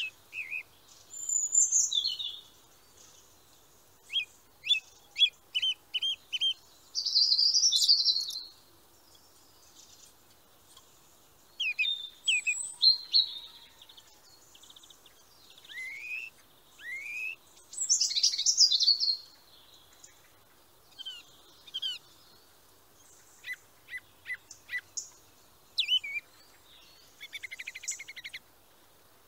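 Songbirds singing: phrases of short high chirps, whistles and quick rising and falling notes, with quiet gaps between them, and a fast buzzy trill near the end.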